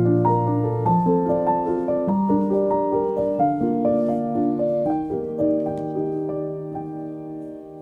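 Background music: soft solo piano playing a slow melody of held notes over low bass notes, growing quieter toward the end.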